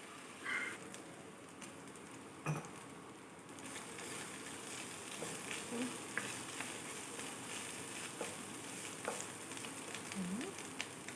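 Onions and ginger-garlic paste frying in hot coconut oil in a cast iron pot over a medium-high flame: a steady sizzle with scattered crackles, and a couple of knocks near the start.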